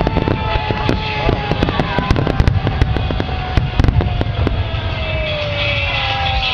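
Fireworks display: rapid crackling of many small bursts, thinning out after about four and a half seconds, over a continuous low rumble. A thin whistle falls slowly in pitch throughout.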